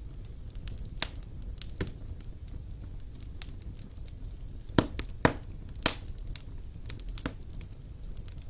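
Wood fire in a fireplace crackling, with irregular sharp pops over a low steady rumble; a few louder pops come close together about five to six seconds in.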